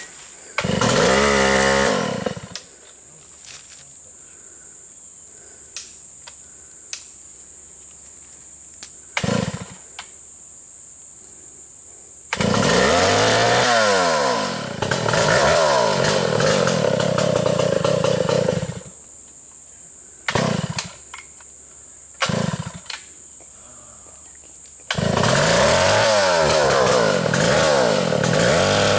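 Stihl 056 chainsaw revved hard in bursts. There is a short run at the start, a long run of about six seconds in the middle whose pitch sags and climbs, and another long run starting a few seconds before the end. Brief blips of the throttle come in between, with much quieter stretches between the runs.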